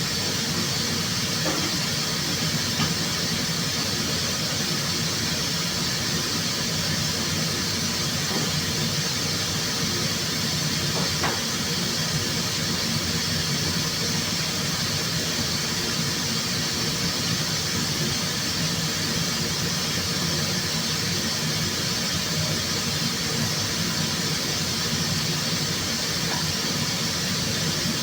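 Steady rushing hiss of air in a paint spray booth during spray painting of a car body.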